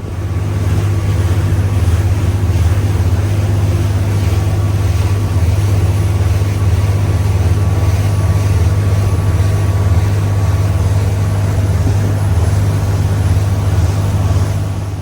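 Boat motor running steadily at speed, a loud low drone with rushing wind and water hiss over it.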